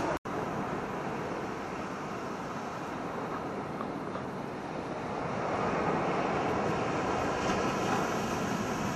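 Strong wind buffeting the microphone over the wash of surf: a steady rushing noise that swells about six seconds in.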